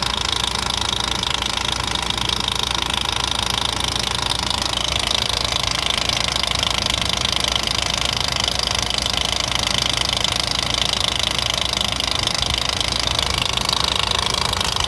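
Nissan engine running with a fast, steady ticking.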